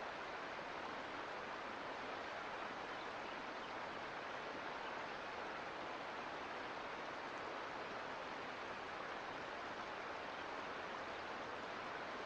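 Sierra Nevada mountain creek flowing: a steady rush of water.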